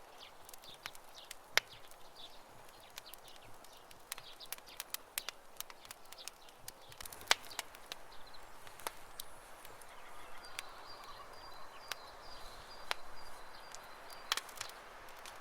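Wood campfire crackling, with irregular sharp pops; the loudest come about one and a half and about seven seconds in. In the second half a bird gives a high, rapid trill lasting about four seconds.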